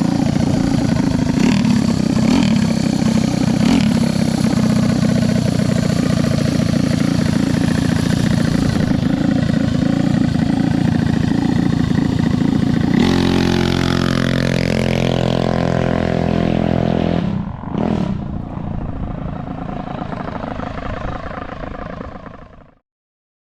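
Drag minibike engine running loud and hard; about halfway through it settles to a steady pitch for a few seconds, then drops off sharply and fades away.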